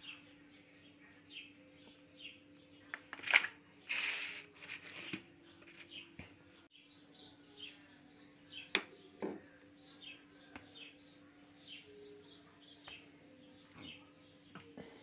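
A small bird chirping over and over in short high notes. A clear plastic food tub crackles loudly for a couple of seconds about three seconds in, and there are a few sharp clicks as things are handled and set down. A steady low hum runs underneath.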